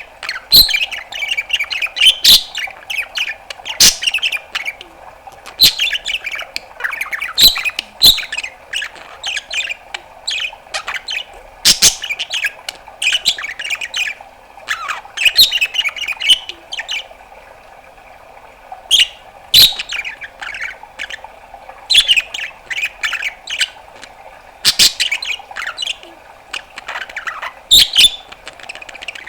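Budgerigar chattering: sharp clicks and squawks mixed with warbled chirps and a few falling whistles, with a short pause partway through.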